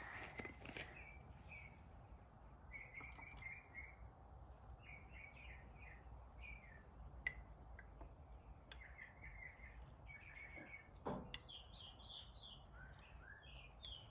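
Faint small birds chirping, many short high notes in quick runs, over a quiet background. A soft click about seven seconds in and a short knock about eleven seconds in.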